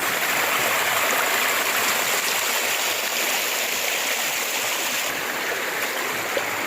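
River water rushing steadily over stones, a constant even hiss.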